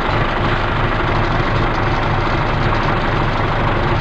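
An engine running steadily at idle with a fast, even low pulse.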